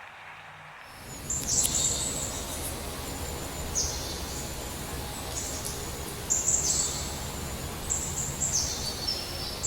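A small bird giving repeated high-pitched chirps, about five short calls, over steady outdoor background noise that starts about a second in.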